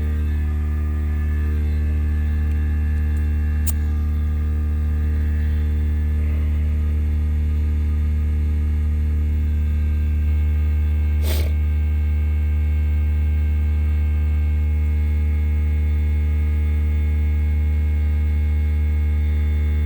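Air compressor motor kicking on and running with a loud, steady hum. There is a light click about four seconds in and a short knock about eleven seconds in.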